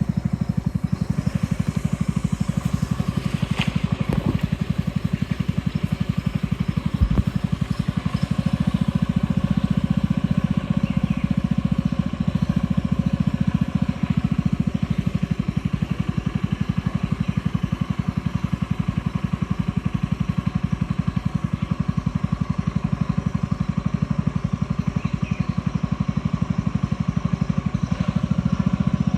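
A boat's motor running steadily at cruising speed, a low, rapidly pulsing drone that holds even throughout, with a single low knock about seven seconds in.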